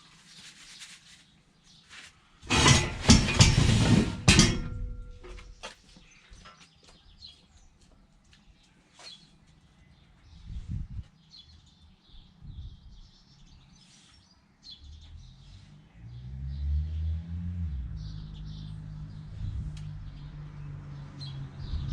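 A loud clatter lasting about two seconds near the start, then birds chirping in a quiet stretch. About fifteen seconds in, a vehicle engine starts, rises briefly and settles into a steady idle.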